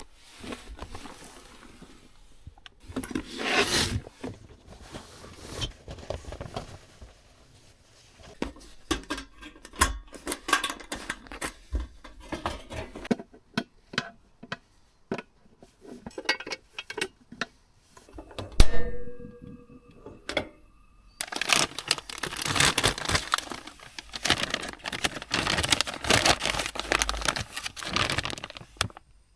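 Food being prepared by hand: packaging rustling and tearing, with clicks and clatter of a pan and utensils. In the last third a denser, continuous crackling sets in.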